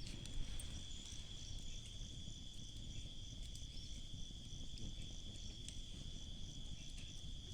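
Insects trilling in a steady, unbroken high tone, with a second, higher insect call pulsing a few times a second; a low rumble underneath.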